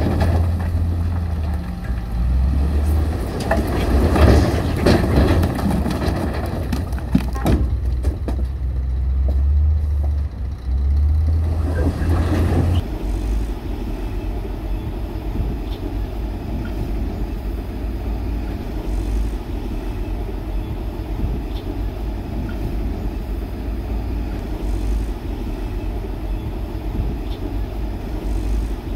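Diesel engines of heavy construction machinery running, with clanks and scraping over a strong low drone in the first half. About halfway through the sound changes abruptly to a steadier, lower engine drone.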